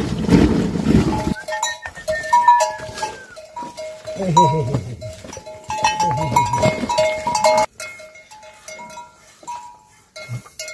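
Goats bleating a few times among the repeated ringing and clinking of livestock neck bells.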